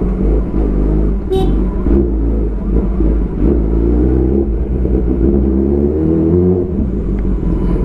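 Kawasaki ZX10R inline-four with an Arrow full-system exhaust running at low revs in slow riding, its pitch rising and falling with small throttle changes. A brief high-pitched tone sounds about a second and a half in, and the deep exhaust note drops away briefly near the end.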